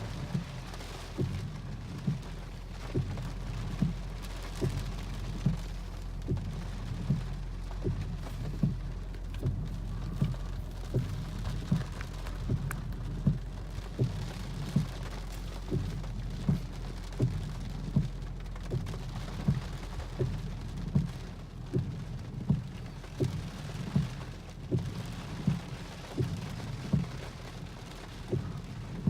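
Storm wind and rain making a steady rushing noise, with a low thump repeating evenly a little more than once a second.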